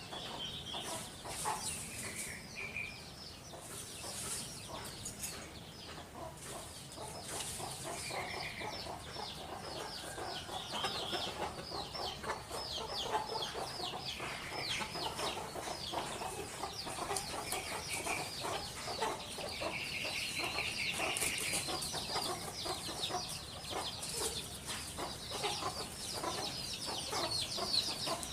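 Backyard birds calling: a continuous chatter of short clucking and chirping notes.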